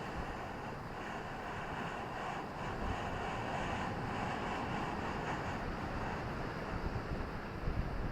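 Ocean surf washing onto a beach: a steady roar of breaking waves, with wind buffeting the microphone and a few gusty bumps near the end.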